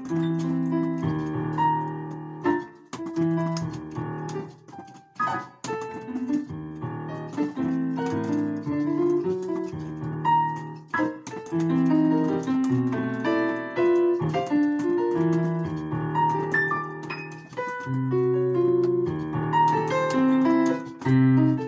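Piano playing: busy runs of notes and full chords, with a few brief breaks about a few seconds in.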